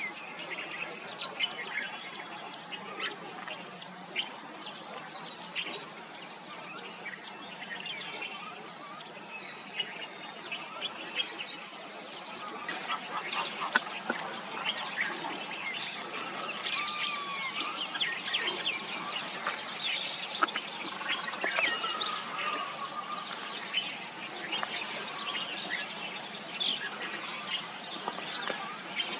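Common mynas calling: a busy mix of short chirps, whistles and gliding notes that grows busier about halfway through, over a steady, pulsing high insect trill.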